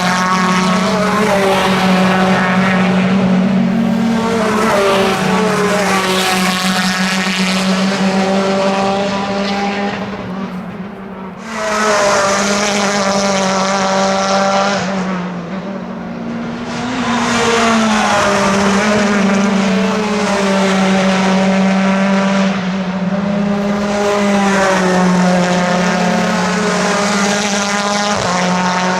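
Race car engines accelerating hard, pitch climbing and then dropping back at each upshift, over and over as cars go through the gears, with a steady low drone underneath. The sound dips briefly near the middle, then jumps back loud as another car comes through.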